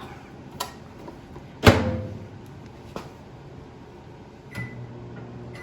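Microwave oven door clunking shut, with a few clicks and a short keypad beep, then the oven starting up with a steady low hum near the end.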